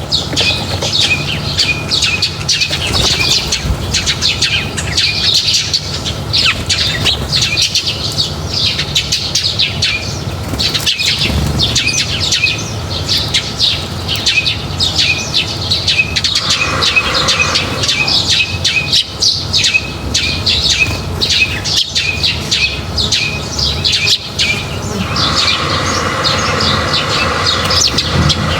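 A flock of small birds at a feeding spot chirping rapidly and continuously, with wings flapping among the calls.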